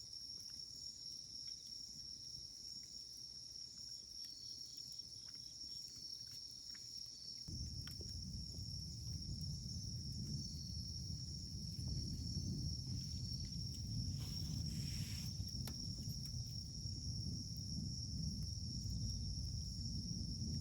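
Wood campfire burning with sparse crackles and pops, under a steady high chirring of insects. About a third of the way in a low rumble comes in and stays, and a brief hiss sounds about two-thirds through.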